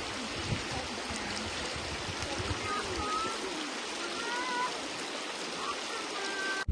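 A stream running, a steady rush of water, with a few faint short chirping calls over it now and then.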